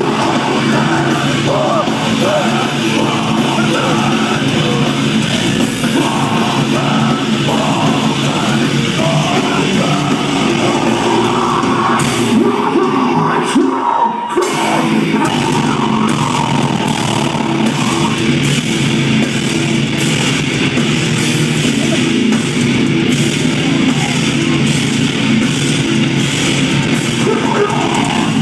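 Metalcore band playing live and loud: heavy distorted guitars, drums and vocals, recorded on a phone in the audience. The low end drops out briefly about halfway through, then comes back in.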